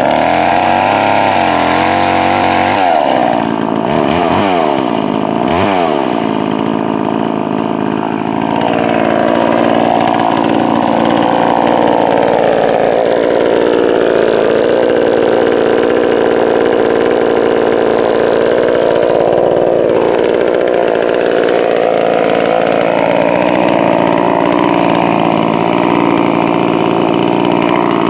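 Poulan Pro 4620 two-stroke chainsaw, freshly rebuilt with a new piston and set rich for break-in. It revs up and down a few times, then runs held open through a long cut, its pitch sagging and recovering under the load.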